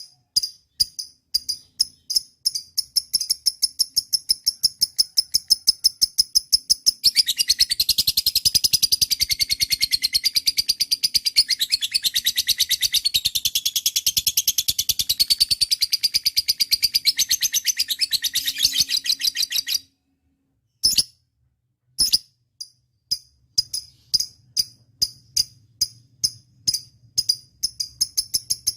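Lovebird calling: a fast run of sharp, high chirps that about seven seconds in breaks into a long unbroken chattering trill, the drawn-out call lovebird keepers prize. The trill cuts off suddenly around twenty seconds in, and after a brief silence the quick chirps start again.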